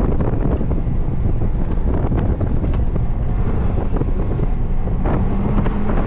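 A 2012 Mazdaspeed 3's turbocharged 2.3-litre four-cylinder driven hard, heard from inside the cabin under heavy wind buffeting on the microphone. A steady engine tone comes through about five seconds in.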